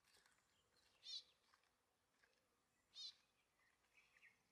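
A bird calling faintly: a short warbling call repeated about every two seconds, over quiet outdoor ambience.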